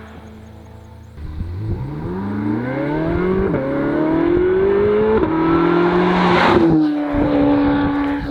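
C8 Corvette Z06's flat-plane-crank V8 through an AWE exhaust, accelerating hard. The engine comes in loud about a second in, its pitch climbing and dropping sharply at two quick upshifts, then running at a steady high pitch with a brief dip near the end.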